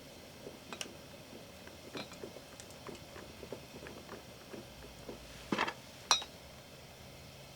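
Scattered light taps and clicks of small objects being handled, with a short rustling burst about five and a half seconds in and a sharp clink just after.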